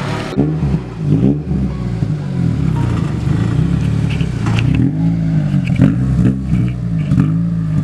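Car engine being revved in a quick series of throttle blips, its pitch rising and falling over and over.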